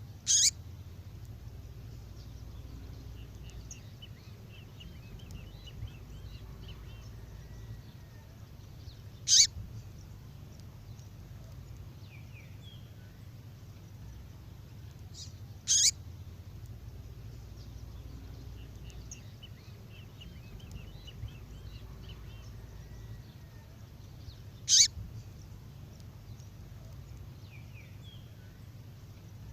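Songbird calls, given as a female's call: four loud, sharp calls, each a quick downward sweep, spaced several seconds apart, with faint twittering between them over a low steady hum.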